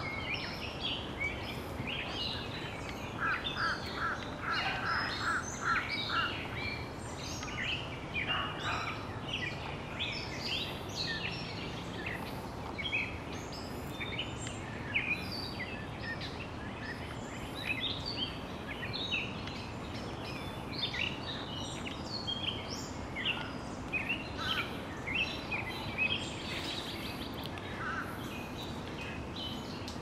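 Several wild songbirds singing and chirping at once, in many short, quick notes, over a steady background noise. About three seconds in, one bird gives a run of eight or so evenly spaced, lower repeated notes.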